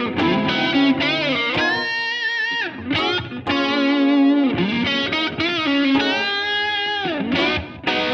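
Background music: a distorted electric guitar playing a lead line, with notes bending up and down in pitch.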